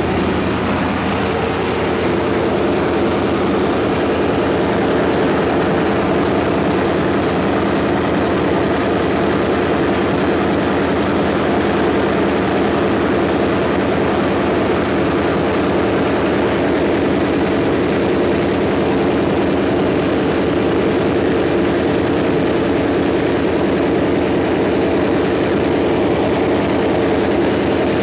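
Chevrolet 350 small-block V8 with throttle body injection idling steadily.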